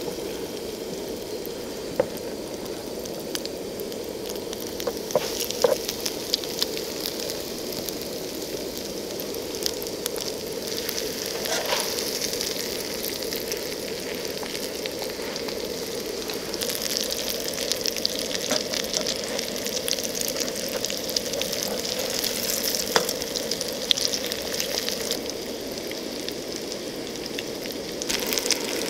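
Fishcakes frying in hot oil in a Trangia 25 frying pan: a steady sizzle and crackle, growing stronger past the halfway point, with a few sharp taps of the spatula against the pan as the cakes are moved and turned.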